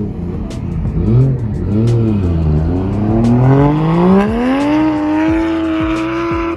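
Nissan 240SX (S13) engine through an aftermarket ISR exhaust, blipped twice and then accelerating: the pitch climbs steadily for a couple of seconds, then levels off and holds.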